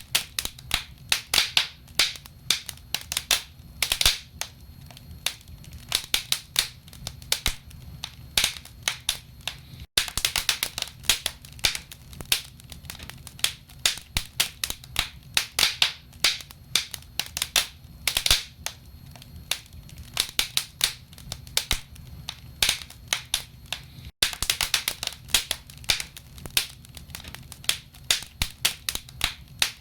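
Wood fire burning in a fireplace, logs crackling with frequent irregular sharp pops and snaps over a low steady rumble of the flames. The sound drops out for an instant twice.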